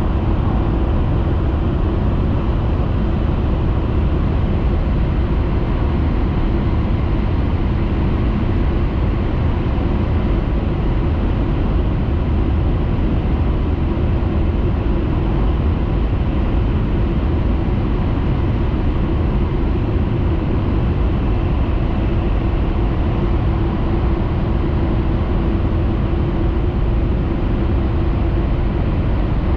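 Steady running noise heard inside the passenger cabin of a Hayabusa Shinkansen train at speed: a constant low rumble and hiss with a faint steady hum.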